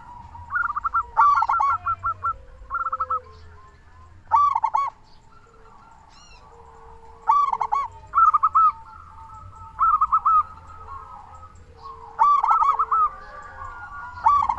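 Zebra doves (perkutut) calling: phrases of quick rolling coos every one to three seconds, with a softer, lower coo from another bird underneath.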